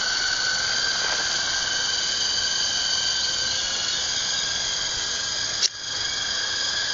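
Electric motors and twin rotors of a toy RC Chinook helicopter running at speed on the water, a steady high-pitched whine. A short click with a brief drop in level comes about five and a half seconds in.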